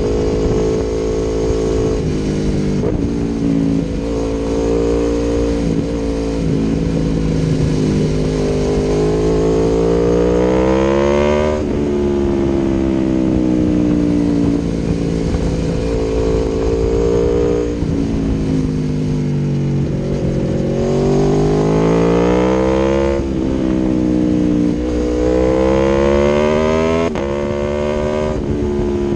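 Aprilia Tuono V4 1100 Factory's V4 engine through an Akrapovic exhaust, on the move. The engine note climbs steadily under acceleration three times, and each climb ends in a sharp drop in pitch, as at a gear change.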